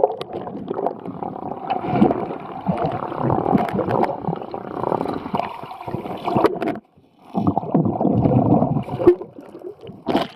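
River water sloshing and gurgling close to the microphone while swimming, dense and choppy, with short breaks about seven and nine seconds in.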